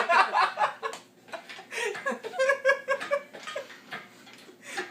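A person laughing, with a quick run of short rhythmic laughs about two seconds in, among scraps of voice.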